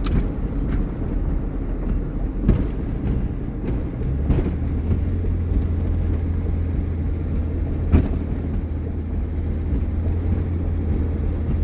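Engine and road noise inside a moving vehicle's cab: a steady low rumble, with a low hum setting in about four seconds in. A few sharp knocks from the cab jolting over the rough road.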